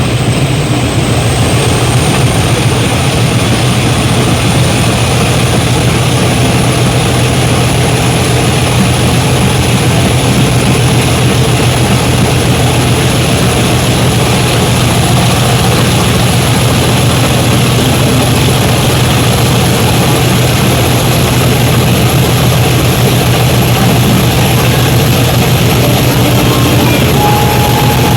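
Class 50 diesel locomotive's English Electric 16-cylinder engine running with a loud, steady drone, and a thin high whine that slowly rises in pitch.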